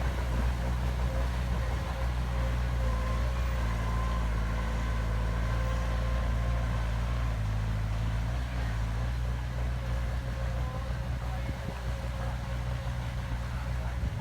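Heavy diesel engine of a construction machine running steadily: a deep, even hum with a faint steady whine above it.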